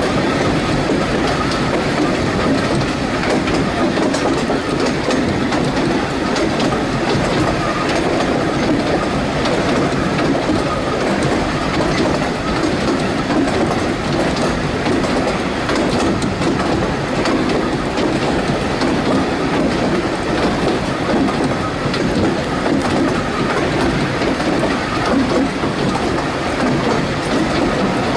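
Narrow-gauge railway carriage running steadily along the track: continuous wheel-on-rail rumble with scattered clicks from the rail joints, heard from the carriage side.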